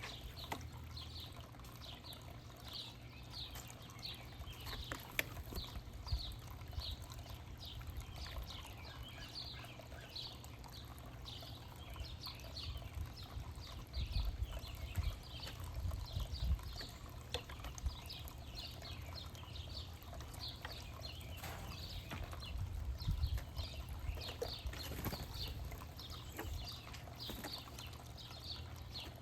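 Small birds chirping continuously, many short high down-slurred chirps a second, over a low rumble.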